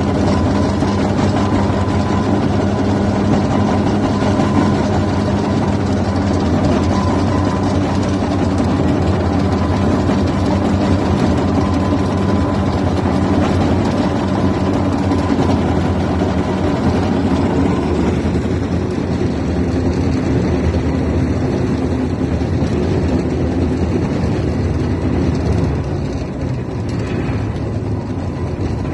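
Fowler steam ploughing engine running steadily, with a faint high whine in it that fades out about two-thirds of the way through.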